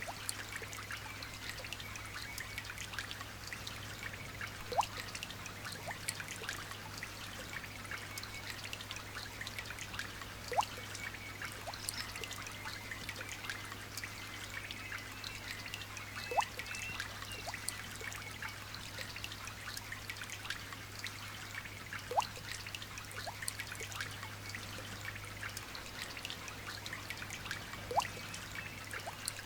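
Light rain falling: a steady patter of many small drops, with a louder single drip about every six seconds.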